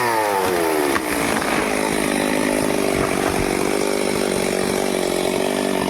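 Stihl chainsaw cutting into a teak trunk: the engine pitch drops over the first second as the chain bites into the wood. It then runs steadily at lower revs under load, mixed with the noise of the cut.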